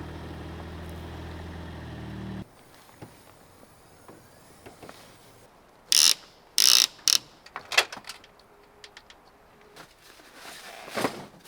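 A vehicle engine running with a steady hum that cuts off suddenly about two seconds in. A few loud, short rasping bursts and sharp clicks follow around the middle.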